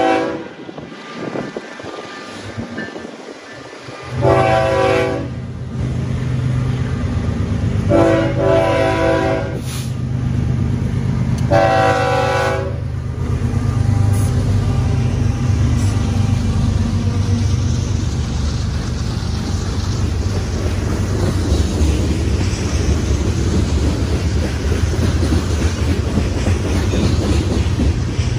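Freight train's locomotive air horn sounding a chord in several long blasts as the train approaches. Then the diesel locomotive's low engine rumble and the rolling cars go by steadily.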